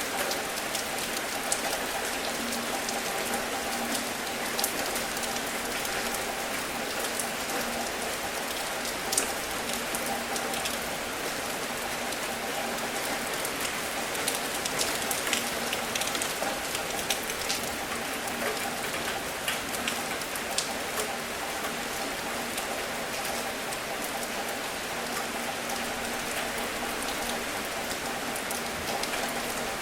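Steady rain with many sharp individual drop hits standing out, most of them in the middle of the stretch, over a faint steady hum.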